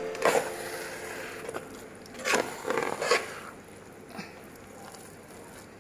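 A metal spoon stirring sticky glutinous rice in syrup in a pressure cooker's pot: a few short scrapes and squelches in the first three and a half seconds, then a fainter one, then quieter.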